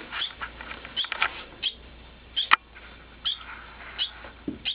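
Young birds chirping: short, high, downward-sliding peeps repeated about every half second, with one sharp click about halfway through.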